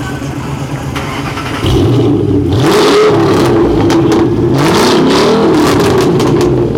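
2008 Ford Mustang GT's V8 running through a Borla aftermarket exhaust: idling, then revved twice from about two seconds in, the pitch rising and falling with each blip of the throttle.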